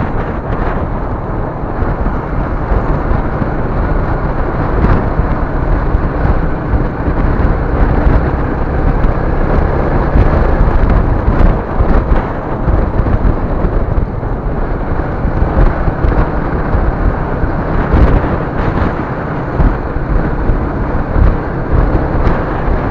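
Loud, steady rumble of a moving vehicle picked up by a dashcam's built-in microphone: road and engine noise, heaviest in the low end, swelling slightly now and then.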